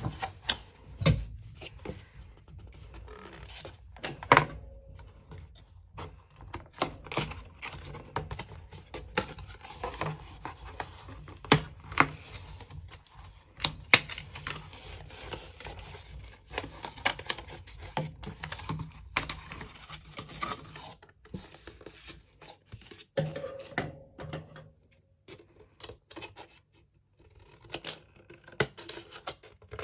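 Cardboard packaging and paper handled on a tabletop: irregular taps, thunks, scratches and scrapes, some sharp and some soft.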